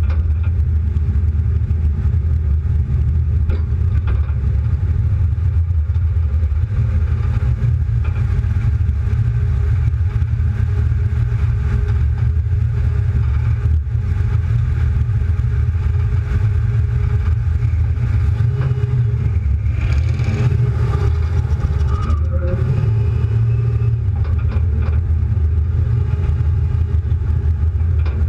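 Car engine and exhaust rumbling steadily while driving, with road noise. The engine pitch rises and shifts about twenty seconds in.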